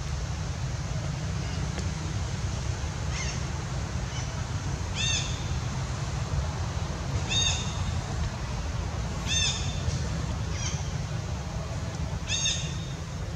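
A bird calling in short calls, one roughly every two seconds, some louder than others, over a steady low rumble.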